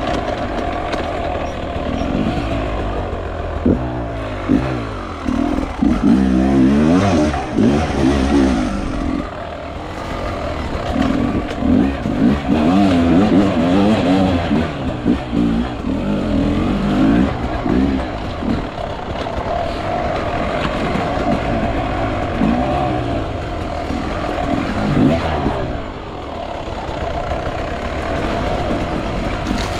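Two-stroke enduro motorcycle engine, a Beta 300 RR, revving up and down again and again while being ridden.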